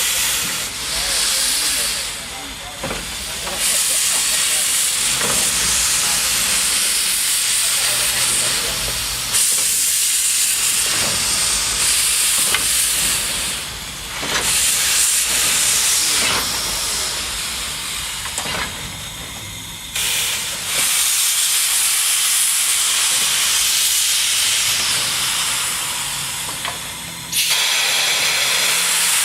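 Narrow-gauge steam locomotive hissing as it vents steam, a loud dense hiss that jumps abruptly in level several times.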